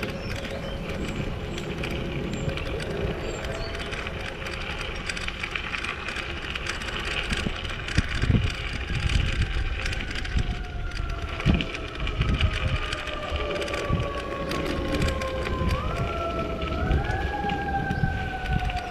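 Wind and road rumble on the microphone of a moving e-bike, with scattered knocks. About halfway through, a siren becomes audible, its pitch sliding slowly down and then jumping up twice near the end.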